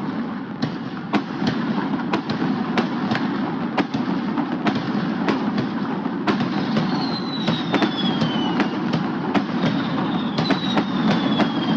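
Fireworks display: a string of sharp bangs at irregular intervals over a steady background noise. Two thin whistles falling in pitch sound about seven and ten seconds in.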